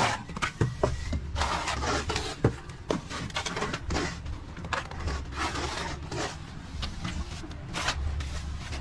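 Repeated scraping strokes of a plastering trowel being worked across wet plaster or mortar, an irregular swish every half second to second.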